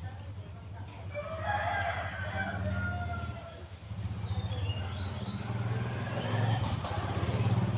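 Bird calls in two stretches over a steady low hum.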